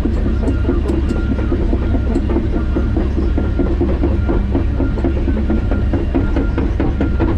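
John Deere 130G excavator working, its diesel engine running steadily under a low drone, with irregular clanking and rattling.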